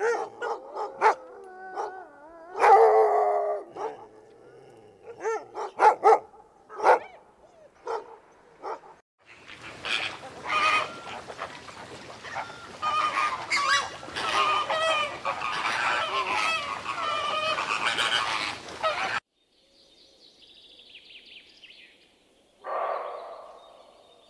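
Animal calls: for about nine seconds, short repeated pitched calls one after another. Then about ten seconds of many calls overlapping, which cut off suddenly. One more call comes near the end.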